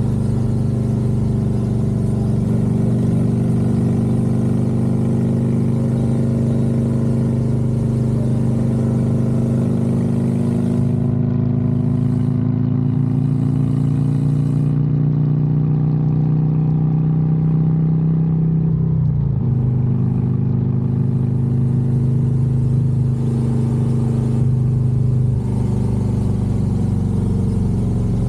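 Harley-Davidson Road Glide's V-twin engine running on the road, its pitch climbing slowly as the bike gathers speed. About two-thirds of the way through the pitch drops sharply, as at a gear change or a roll-off of the throttle, and then holds steady.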